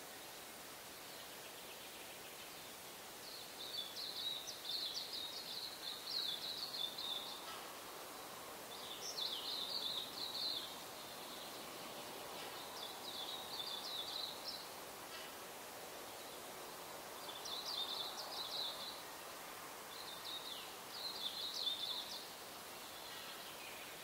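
A bird singing in five short, high, rapid phrases a few seconds apart, over a faint steady background hiss.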